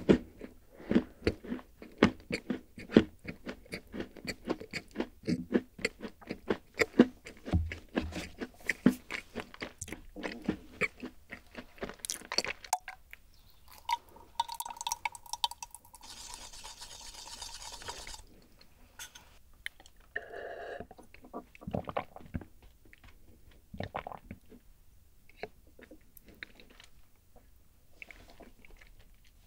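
Close-miked chewing of a crunchy chocolate cookie, with rapid crisp crunches for about the first twelve seconds. About halfway through, a milky drink is poured from a tall glass into a small glass: a steady ringing note that turns into a splashing hiss. After that come a few soft, sparse mouth and glass sounds.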